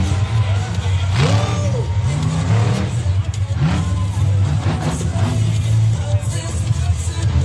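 Monster truck engine revving up and down over and over, mixed with loud background music.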